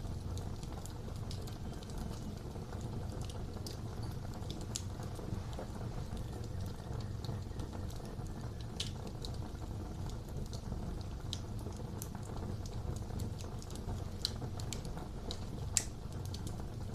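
Wood fire crackling in a fireplace: a steady low rush of flame under scattered, irregular sharp pops and snaps, with one louder pop near the end.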